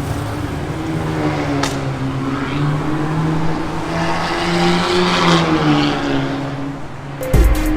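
Honda Civic FC's 1.5-litre turbo four-cylinder running through a full stainless-steel exhaust with custom downpipe and valved muffler, its note rising a little in pitch towards the middle and easing off again. Electronic music cuts in near the end.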